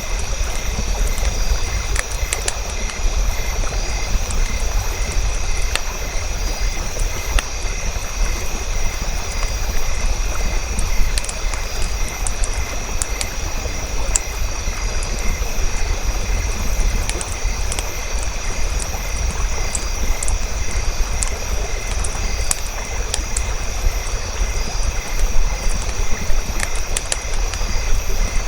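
Campfire crackling: irregular sharp pops scattered over a steady low rumble, with a faint high pulsing tone running through it.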